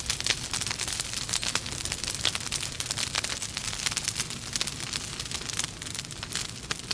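Wood fire burning in a fireplace: logs crackling and popping irregularly over a steady hiss.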